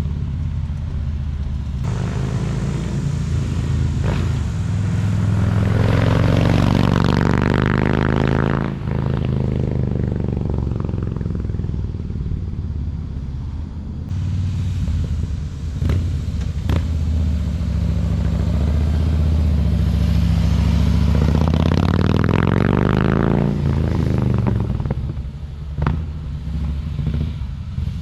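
2015 Harley-Davidson Fat Boy's V-twin engine idling through its stock mufflers, which have been drilled out and fitted with baffles. It is revved twice, once about a fifth of the way in and again near the end, each time rising and falling back to idle.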